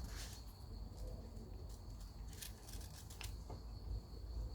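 A stray cat chewing food, with a few short, sharp crunches over a steady, faint high-pitched tone.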